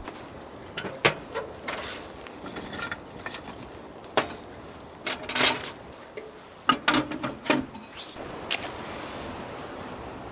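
Camping gear being handled: scattered knocks, clicks and clatters, with a rustling swish about five seconds in.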